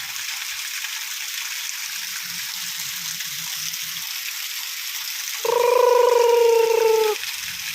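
Steady hiss of falling rain. About five and a half seconds in, a loud held tone sounds for under two seconds, sinking slightly in pitch before it cuts off.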